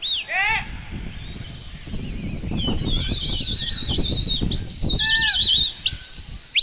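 Shrill, wavering whistled calls, several overlapping, some held and some sliding down in pitch, over a low rumble of wind on the microphone.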